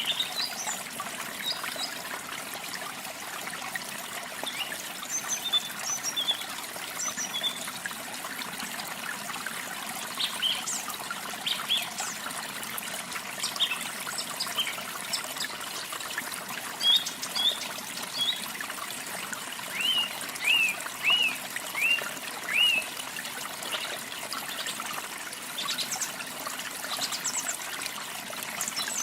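Water steadily running and trickling over rocks, with songbirds chirping and whistling throughout; near the end a bird repeats a short arched note five or six times in a row.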